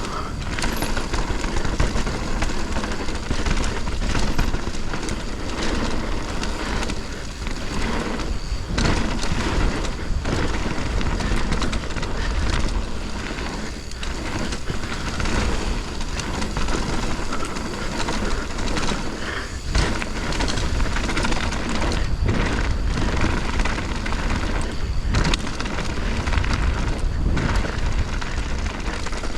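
Mountain bike descending a dirt bike-park trail: steady wind and tyre rush with frequent knocks and rattles as the bike hits bumps.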